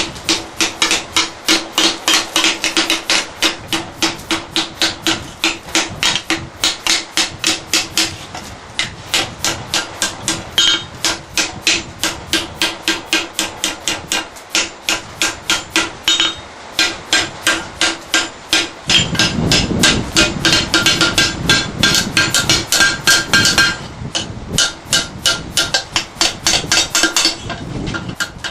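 C41 pneumatic forging hammer (air hammer) striking repeatedly in a fast, even rhythm of about three blows a second, with a few brief pauses. Partway through, a heavier low rumble runs under the blows for about five seconds.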